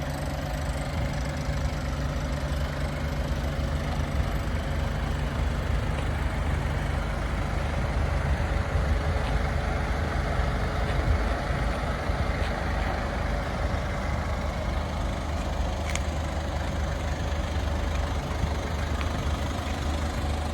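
Mazda Bongo Friendee's 2.5-litre intercooled turbo diesel idling steadily.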